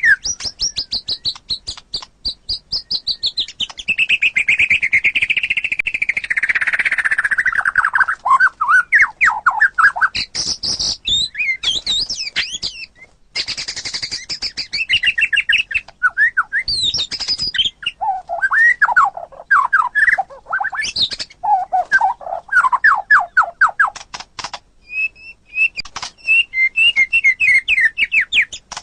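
White-rumped shama (murai batu) singing a long, varied song of rapid note trains and whistled glides, with a few short pauses.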